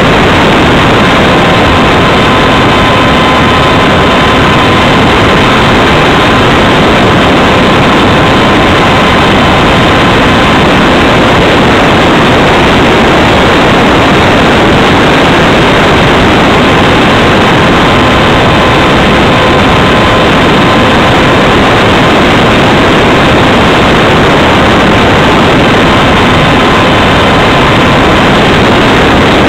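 Loud, steady rush of air over the microphone of a camera riding on a Radjet 800 RC model plane in flight, with the thin, steady whine of its electric motor and propeller. The whine fades out for a few seconds midway, then returns.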